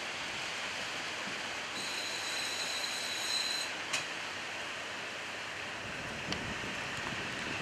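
KiHa 40-series diesel railcar braking into a station over a steady hiss, with a high-pitched squeal from its wheels and brakes for about two seconds. A sharp click comes just after the squeal stops, and a fainter one near the end.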